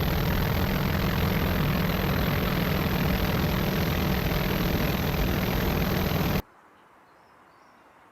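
Aircraft engines running steadily, a loud noise with a low hum, that cuts off abruptly about six seconds in, leaving a faint hiss.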